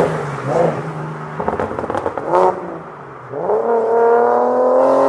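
2007 BMW 335i's engine pulling under hard acceleration, its note rising steadily from about three seconds in. Before that there are a few short, uneven sounds and clicks.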